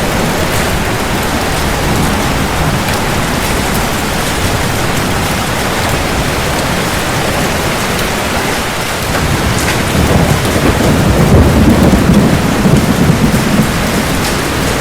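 Steady heavy rain falling, with a low rumble of thunder that builds about ten seconds in and peaks a couple of seconds later before easing.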